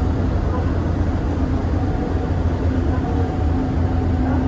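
Steady low rumble of a vehicle in motion, heard from inside, with a faint steady hum over it.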